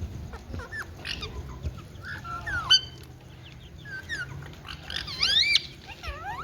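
Indian ringneck parrot calling: a string of short chirps and squawks that sweep up and down in pitch, with the loudest run of swooping calls about five seconds in.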